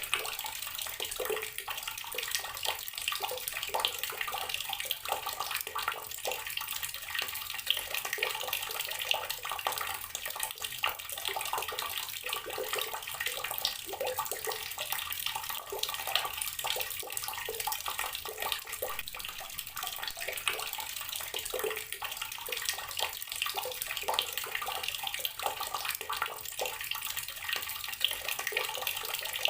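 Outdoor water tap running steadily, its stream splashing continuously onto the ground below.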